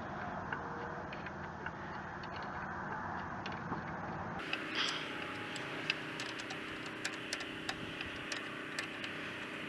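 Ratchet wrench handle clicking irregularly as nuts on the backhoe's joystick control linkage are tightened, the clicks coming more often in the second half, over a steady background noise.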